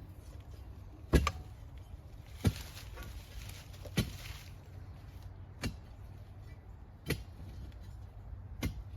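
Manual clamshell post hole digger jabbed down into a fence post hole, six sharp strikes about a second and a half apart, in a hole that still has rock in it.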